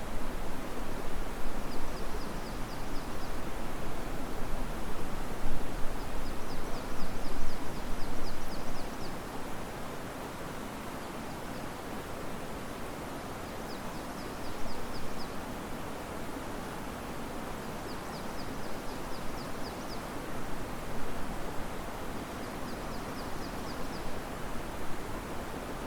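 Wind rustling the leaves of riverside trees over the steady rush of river water, louder and gustier for the first nine seconds or so, then softer. A short high trill of rapid ticks recurs every few seconds.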